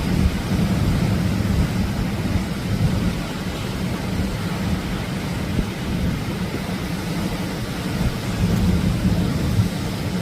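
Atlantic surf breaking on a beach: a continuous low rumbling wash of waves that swells and eases over a few seconds.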